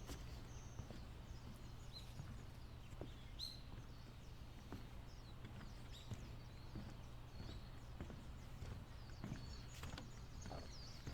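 Footsteps walking along a wooden boardwalk, soft knocks a little under a second apart, over a steady low rumble. Faint short bird chirps come and go, more of them near the end.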